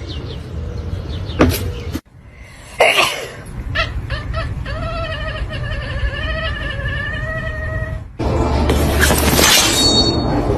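A domestic cat gives one long, wavering yowl lasting about three seconds, in the middle. Shorter clips come before and after it, with a couple of sharp knocks early on and a stretch of noisy sound near the end.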